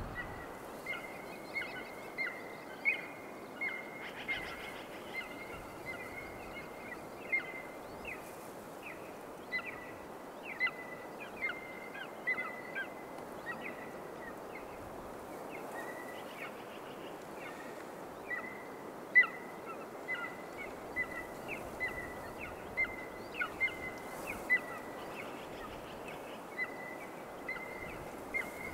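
A bird calling over and over: short, high-pitched notes repeated about one or two a second, over a faint steady hiss.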